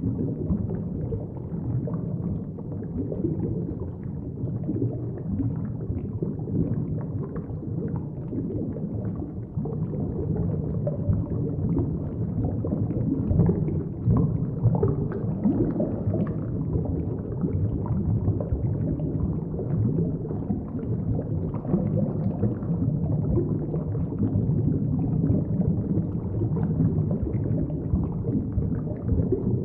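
Steady, muffled underwater rumble and gurgle, heard through a submerged camera, with faint crackles scattered through it.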